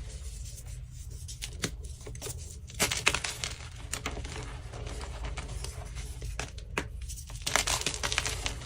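Deep-dyed blocks of BSN gym chalk being crushed: two bursts of dry crunching and crumbling, about three seconds in and again near the end, with scattered single crackles between them.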